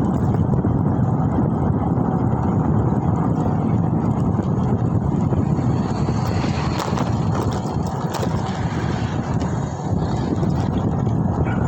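Wind buffeting the microphone of a moving rider, a steady low rumble with road noise underneath.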